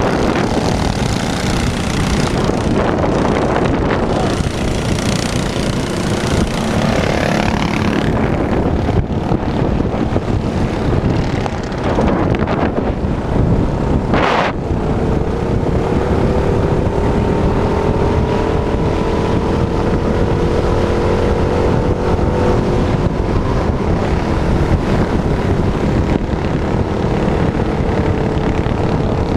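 Small minibike engine running at a steady speed under heavy rushing noise, with a single sharp knock about halfway through.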